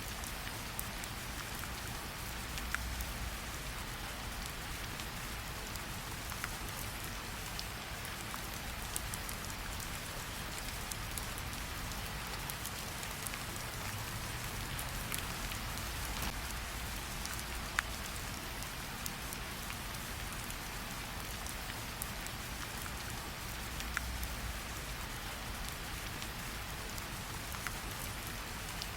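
Steady rain falling, with scattered sharp pops and crackles from a campfire.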